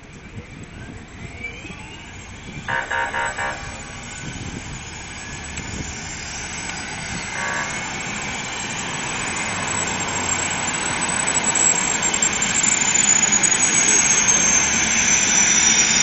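Helicopter's turbine engines spooling up, the sound growing steadily louder, with a high whine climbing in pitch near the end. A short pulsed horn-like tone sounds about three seconds in.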